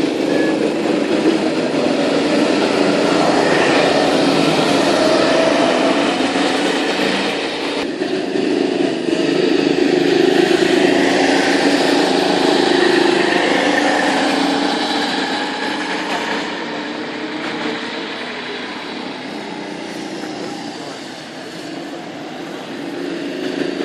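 Go-kart engines running, their pitch rising and falling. The sound eases off in the second half and builds again near the end.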